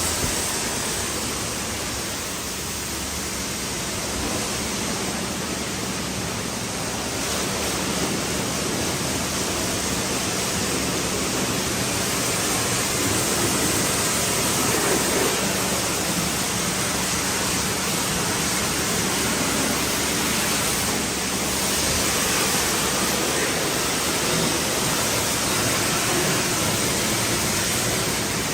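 Pressure washer spraying water onto a car's bodywork: a steady, loud hiss of spray with a faint low hum underneath.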